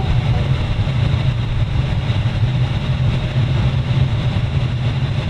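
1983 Jeep CJ7 engine idling steadily after a cold start.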